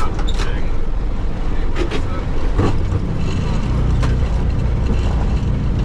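Boeing 737 on its landing roll, heard from the cockpit: a steady low rumble of the engines and the wheels on the runway, with several sharp rattles and knocks. The rumble grows stronger about two and a half seconds in.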